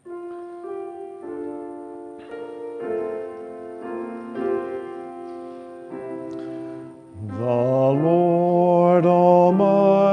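Church keyboard music, most likely the organ, playing held chords as a hymn or liturgy introduction. About seven seconds in it becomes much louder and fuller, with lower notes added.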